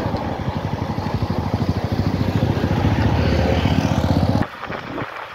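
Motorcycle engine running at low speed with a rapid low pulsing, cutting off suddenly about four and a half seconds in.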